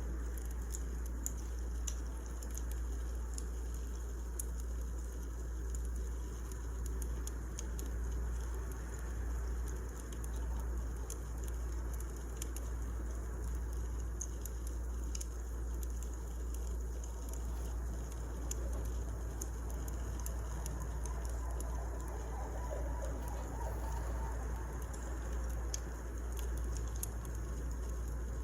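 Wood fire crackling: irregular small snaps and pops over a steady low rumble.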